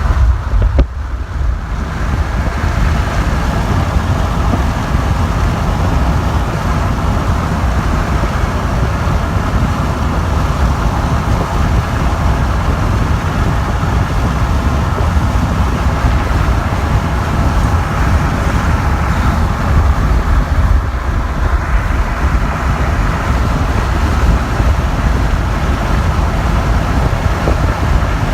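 Freight train rolling past, with a loud, steady rumble of wheels on the rails.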